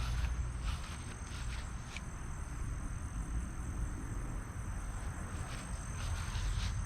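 Insects trilling, two steady high tones holding without a break, over a low rumble. A few soft footsteps in the first two seconds and again near the end.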